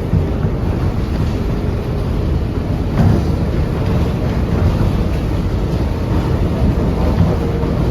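NYC Subway R142A car running between stations, heard from inside: a steady rumble of wheels on rail, with a single clunk about three seconds in.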